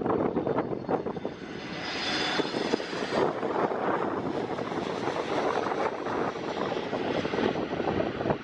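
Airbus A321neo jet airliner's engines as it comes in to land: a steady jet rush, with a brief high whine about two seconds in.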